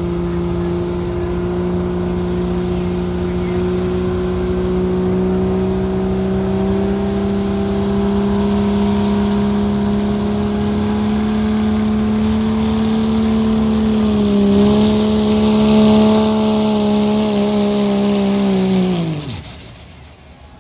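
Pulling vehicle's engine at full throttle under load down the track, its pitch slowly climbing. About nineteen seconds in, the throttle is cut and the engine winds down fast.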